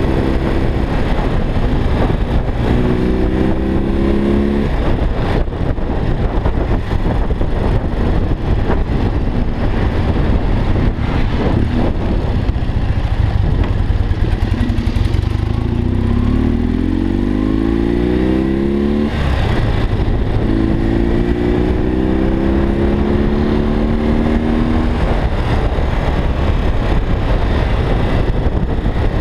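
BMW R45's air-cooled flat-twin engine accelerating through the gears in city riding, its note rising in pitch several times, with the longest climb cutting off abruptly about two-thirds of the way in. A steady rush of wind and road noise runs under it.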